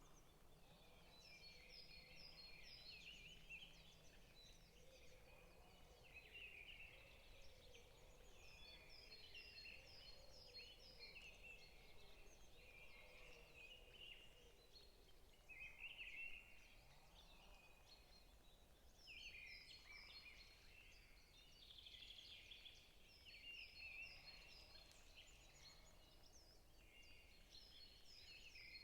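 Several small forest birds chirping and singing faintly at once, with overlapping warbled phrases and runs of quick high repeated notes coming every few seconds.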